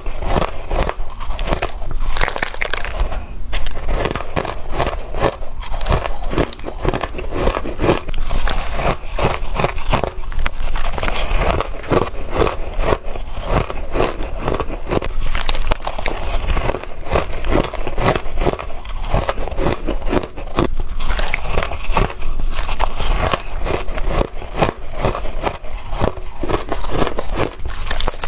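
Crushed ice being bitten and chewed in quick, continuous crunches, spoonful after spoonful.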